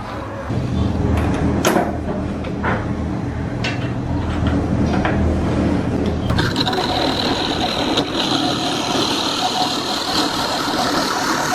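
A machine motor running steadily, with a few sharp knocks; about six seconds in the sound changes to a hissier running noise with a steady high whine.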